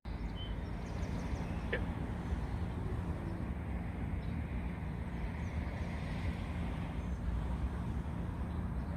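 Steady low rumble of road traffic, with a single faint high chirp about two seconds in.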